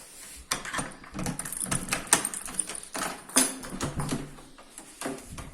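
A run of irregular clicks, knocks and rattles of objects being handled and moved, with a sharp knock a little past three seconds in.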